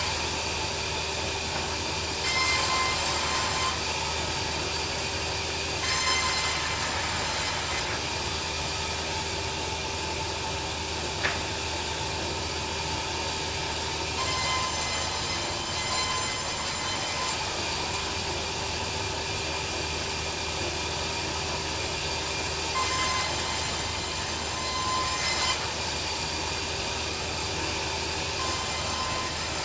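Sawmill bandsaw running steadily with a held whine, its blade cutting timber in several louder, hissing stretches of a few seconds each.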